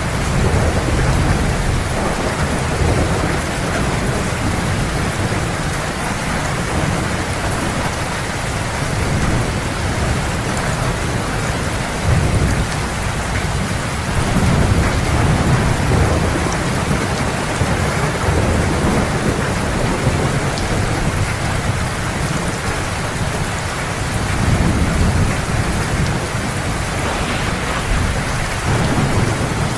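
Heavy rain falling steadily in a thunderstorm, with low thunder rumbling underneath and swelling a few times.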